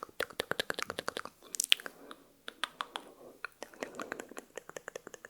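Close-miked ASMR mouth sounds: rapid wet mouth clicks, about eight a second for the first second or so, then sparser. One sharper, louder click comes nearly two seconds in.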